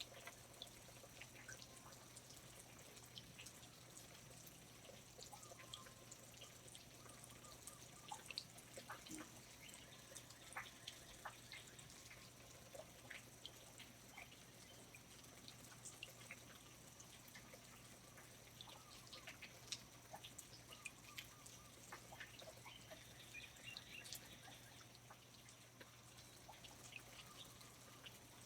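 Faint rainforest ambience: irregular drips of water falling, with a few faint short calls from birds or other small animals.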